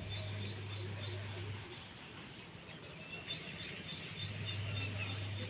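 A small bird chirping in quick runs of short high notes, about three or four a second: one run at the start and a longer one from about three seconds in. A steady low hum comes and goes under it.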